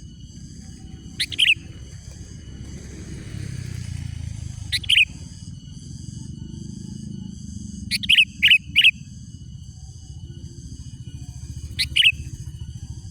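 Sooty-headed bulbul (kutilang) calling in short, sharp bursts: a note about a second in, another near five seconds, three quick notes around eight seconds, and one more near the end. A steady high-pitched hum and a low rumble run underneath.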